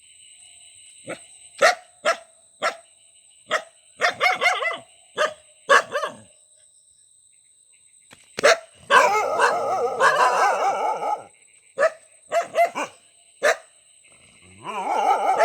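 Dog barking: a series of sharp single barks, then a pause, then two stretches of rapid, run-together barking, with more single barks between them.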